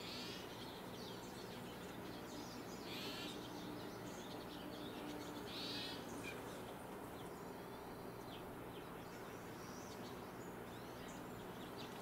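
Short raspy bird notes, three in the first half, about three seconds apart, with faint scattered chirps of other birds over a low steady hum.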